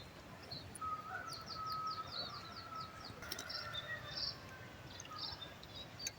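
Wild birds calling, with one giving a quick run of about eight short, high, falling notes about a second in, and other scattered chirps around it.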